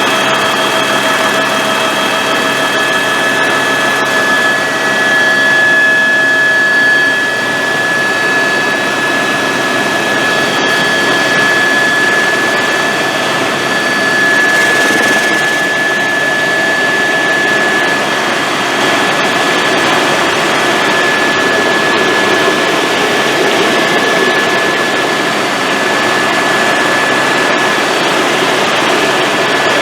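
Helicopter in flight heard from inside the cabin: steady turbine whine with a high tone held throughout, over the constant noise of the engine and rotor.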